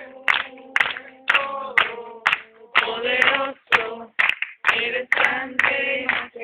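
A group singing a cappella and clapping their hands in time, about two claps a second.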